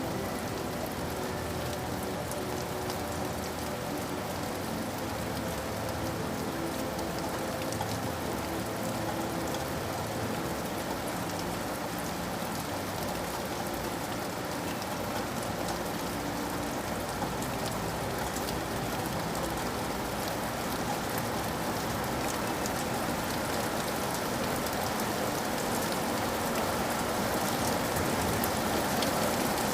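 Steady rain falling on a surface, a dense even patter of drops, growing a little louder near the end.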